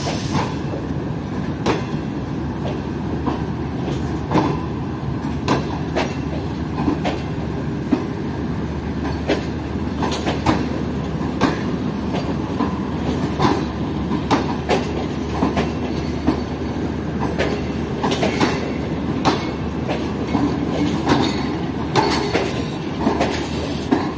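Tezgam Express passenger coaches rolling slowly past, a steady rumble of steel wheels with clacks over the rail joints, often in pairs, about every second.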